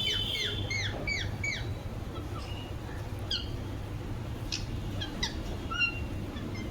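Ringneck parrot (rose-ringed parakeet) calling: a quick run of short chirps, about five a second, for the first second and a half, then scattered single squawks, over a steady low hum.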